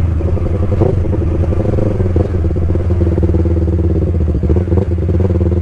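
Yamaha R3's parallel-twin engine running steadily through its aftermarket exhaust, holding an even pitch.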